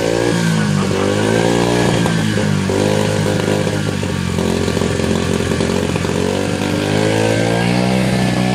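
Dirt bike engine running under way, its pitch rising and falling several times as the throttle is opened and eased off.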